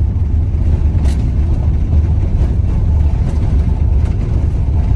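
Inside a van driving on a dirt road: a steady low rumble of engine and tyres on the unpaved surface, with a faint sharp rattle about a second in.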